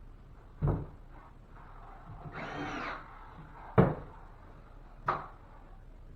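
Three sharp knocks of a drywall patch being handled and fitted up into a ceiling opening, with a brief rasping whirr in between as it is worked into place for screwing.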